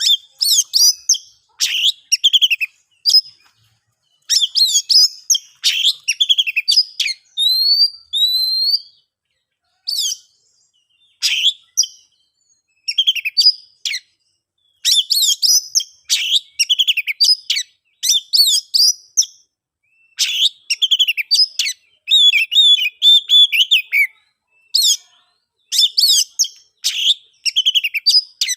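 Oriental magpie-robin singing: a long run of varied, fast whistled and chattering phrases, each a second or two long with short pauses between them. A few clear curving whistles come about eight seconds in.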